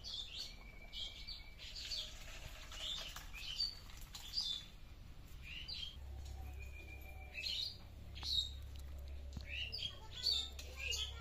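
Small birds chirping: a quick run of short, high calls that slide up and down in pitch, with a couple of brief steady whistled notes.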